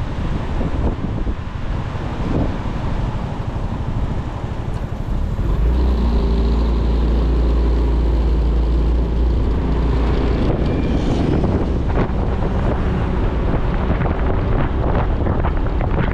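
Motorcycle on the move, with wind buffeting the microphone and road noise. About five seconds in, the engine's steady, even-pitched hum comes up strongly, then sinks back into the wind noise around ten seconds in.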